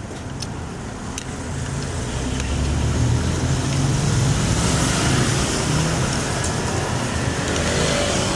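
A motor vehicle going past on the road: a low engine and tyre rumble that builds up over the first few seconds and stays loud before easing slightly near the end.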